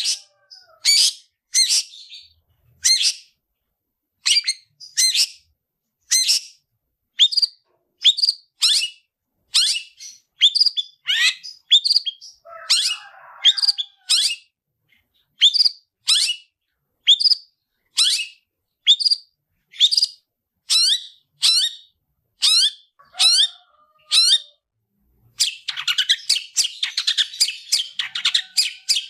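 Long-tailed shrike (cendet) giving its aggressive fighting call: a series of short, sharp calls about one a second, with a few lower rasping notes between them. Near the end it breaks into a rapid, dense chatter.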